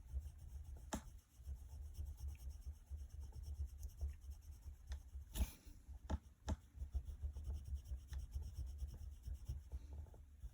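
Scratching strokes of a drawing tool on paper, drawn out in short irregular marks, with a few sharper taps about one, five and six and a half seconds in.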